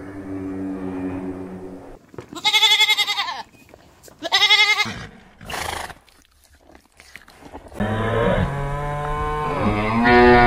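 Farm animals calling: a low drawn-out call, then two loud quavering bleats about two seconds apart and a shorter one, and after a short pause a long low call whose pitch rises near the end.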